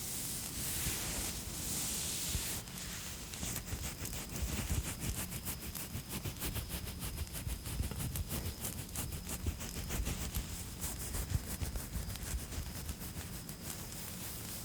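Campfire ambience: a fire crackling in a dense run of small pops from a few seconds in until near the end, over a low steady rumble, with a faint steady high chirping of crickets.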